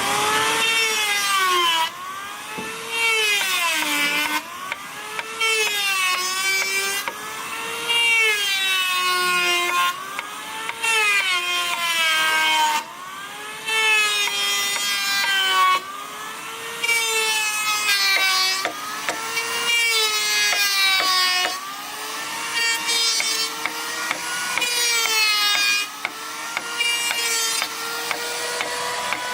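A power tool cutting wood: its motor runs with a steady whine that drops in pitch each time it bites into the wood and rises again as it frees, about every one to two seconds.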